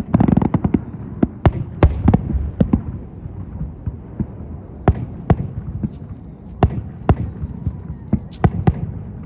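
Aerial fireworks bursting: a rapid run of sharp bangs over a low rumble in the first two seconds, then single bangs every second or so.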